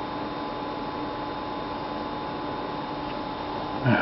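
Steady electrical hum and hiss with a few faint steady tones; no distinct events.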